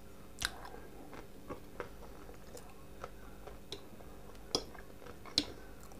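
Faint chewing of fried potatoes, with scattered wet mouth smacks and soft clicks. A sharper click comes about four and a half seconds in, as the fork goes back to the glass plate.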